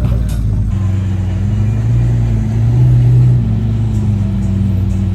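A car engine running with a low rumble, swelling louder for about a second and a half near the middle.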